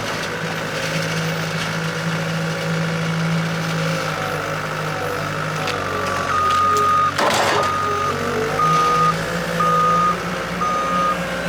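A machine's engine running steadily, with a reversing alarm beeping about once a second from about halfway through. There is a single loud clunk shortly after the beeping starts.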